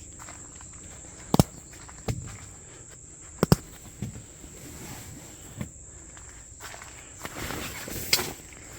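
Handling noise of a rolled mattress pad being unfastened and opened out: several sharp clicks and knocks, the loudest about a second and a half and three and a half seconds in, then rustling with another click near the end. A steady high-pitched insect drone runs underneath.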